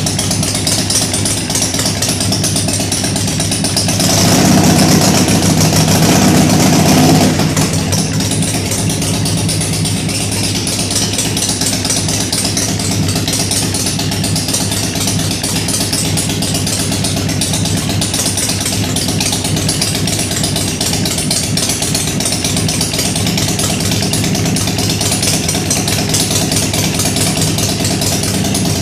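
Ultima 113 cubic inch V-twin in a custom chopper, idling steadily on its first run after being built. About four seconds in it gets louder for some three seconds, then settles back to idle.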